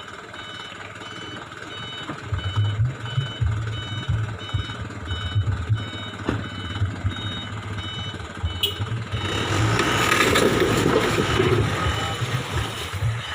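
Truck reversing alarm beeping at a steady, regular rate over the truck's engine. The engine rumble grows louder about two seconds in, and a broad rushing noise swells from about nine seconds as the truck moves.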